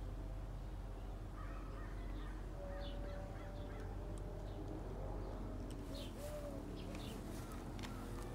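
Birds calling in the background, short scattered calls and one brief arching note, over a steady low rumble.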